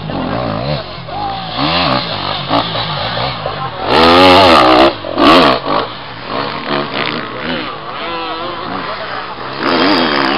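Enduro dirt-bike engines revving hard, their pitch climbing and dropping again and again with throttle and gear changes as the bikes pass. The loudest pass comes about four to five seconds in.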